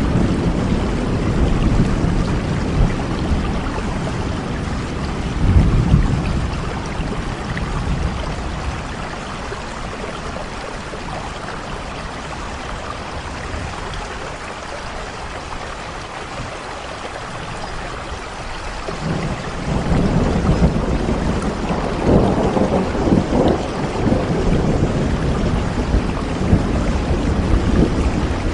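Steady rain with a low rumble underneath; the rumble eases off about a third of the way in and swells back up about two-thirds in.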